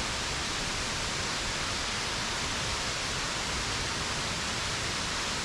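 Waterfall rushing, a steady even wash of falling water with no breaks or changes.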